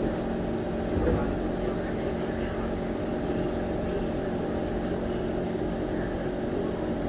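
Steady hum of a stationary MRT train's on-board equipment and air-conditioning while it stands at a station with its doors open, with a faint knock about a second in.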